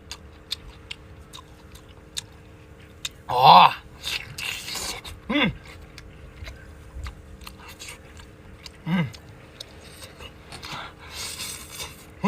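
A person chewing food close to the microphone, with many small wet mouth clicks. A few short falling hums or murmurs come between bites, the loudest about three and a half seconds in, along with brief hissing slurps.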